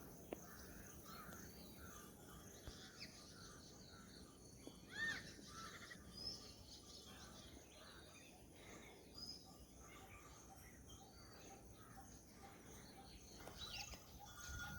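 Faint birdsong outdoors: several birds giving short, repeated chirps and tweets over a low steady background hiss, with one louder call about five seconds in.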